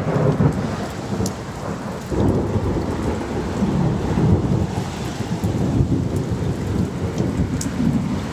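Thunder rumbling, with a new swell about two seconds in that rolls on through the rest, over steady light rain.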